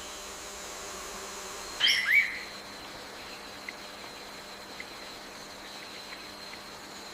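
A bird gives one loud, short call of a few quick sliding notes about two seconds in, over a steady high-pitched insect drone; a few faint chips follow later.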